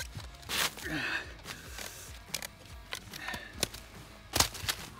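Bow drill being worked: a wooden spindle grinding in a wooden fireboard, heard as irregular scraping strokes with sharp wooden knocks and clicks, the loudest knock near the end.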